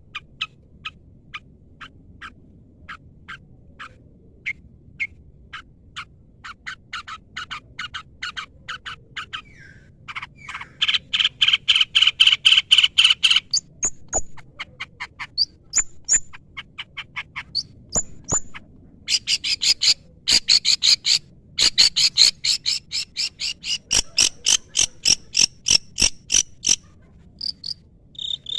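Long-tailed shrike (cendet) singing a long string of short, sharp repeated notes, spaced out at first and then quickening into two dense chattering runs, the louder one about a third of the way in and a higher-pitched one through the second half.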